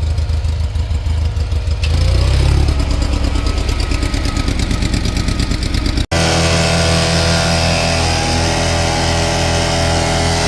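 Heavy truck diesel engine running. It picks up about two seconds in; after a sudden break about six seconds in, an engine runs at a steady idle.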